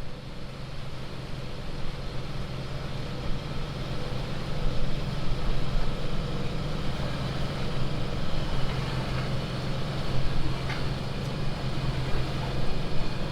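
Sailboat's engine running steadily, a low drone with a noisy rush over it.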